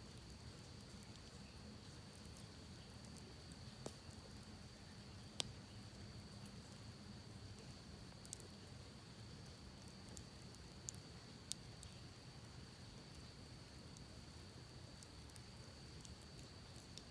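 Campfire crackling faintly, with a few sharp pops, the loudest about five seconds in, over the steady low rush of a creek and a steady high-pitched hum.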